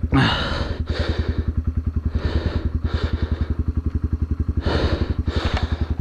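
Yamaha TW200's single-cylinder four-stroke engine idling, with an even low beat of about ten pulses a second, and short puffs of hissy noise over it a few times.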